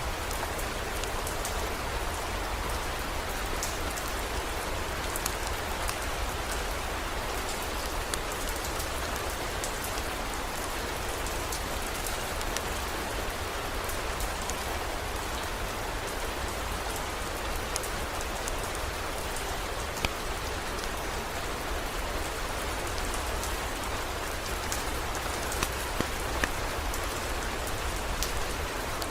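Steady heavy rain: an even hiss with scattered sharp drop ticks and a constant low rumble underneath.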